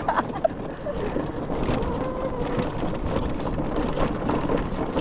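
Motorcycle on the move: steady engine and road noise with wind rushing over the microphone.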